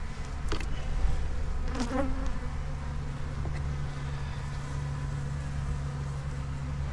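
Honey bees buzzing around an open hive: a steady low hum, with a couple of faint knocks in the first two seconds.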